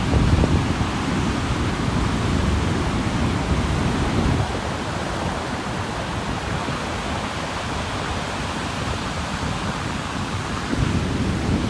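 Sea surf on a beach: a steady rush of waves breaking and washing, with a heavier low rumble at the start and again near the end as bigger waves come in.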